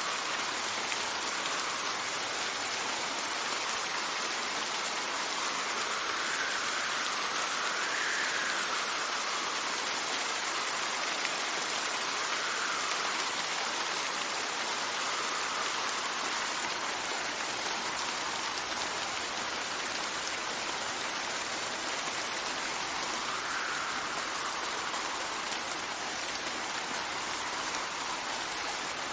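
Steady rain falling as a continuous hiss, with gusts of wind that swell and fade every few seconds and a few single drops ticking near the end.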